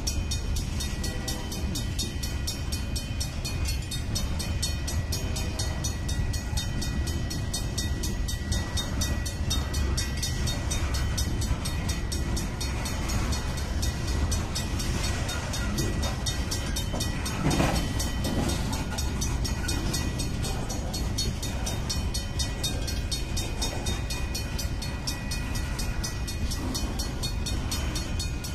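Freight train boxcars rolling past close by: a steady low rumble of steel wheels on rail, with one brief louder burst of noise about two-thirds of the way through.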